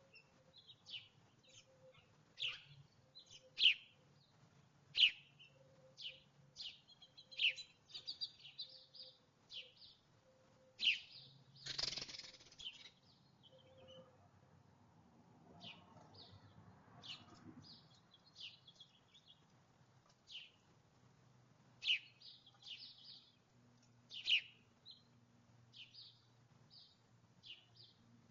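Small songbirds chirping: many short, high chirps at irregular intervals, with a brief rush of noise about halfway through.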